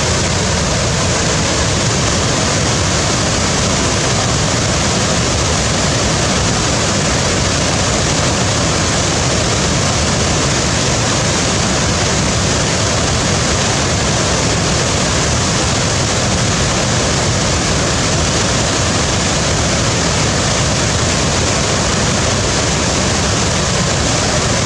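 Waterfall: water pouring and crashing in a loud, unbroken rush.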